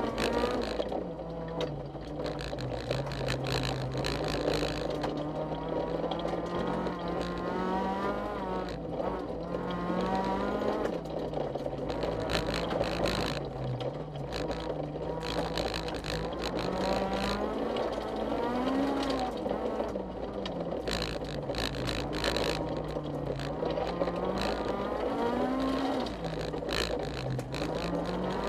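Honda CRX rally car's four-cylinder engine under hard driving, heard from inside the cabin, its pitch climbing and dropping again and again through gear changes and lifts for corners, over a constant rush of tyre noise on gravel.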